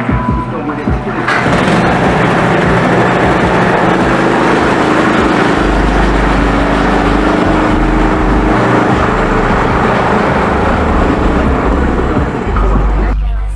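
A motor running steadily and loudly. It starts abruptly about a second in and cuts off sharply near the end.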